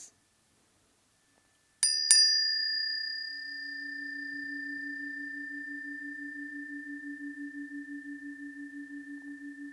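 Two planetary tuning forks struck about two seconds in, a fraction of a second apart, each with a sharp metallic attack. They ring on in a clear high tone over a lower hum that pulses with a slow, even beat.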